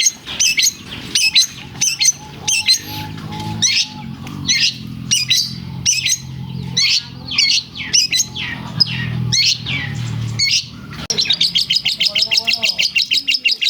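Long-tailed shrike (cendet) singing a loud, fast run of sharp repeated chirps, its song filled with mimicked lovebird calls. Near the end it breaks into a rapid trill of about ten notes a second. A low hum runs underneath for much of it.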